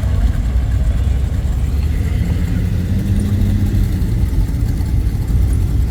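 Car engine running steadily at low revs, a low, even engine sound with no clear revving.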